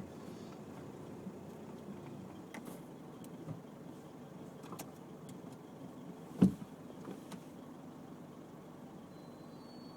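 Nissan X-Trail driving slowly over a rough unpaved track, heard from inside the cabin: a steady low engine and tyre rumble with scattered small clicks and rattles, and one sharp loud knock about six and a half seconds in.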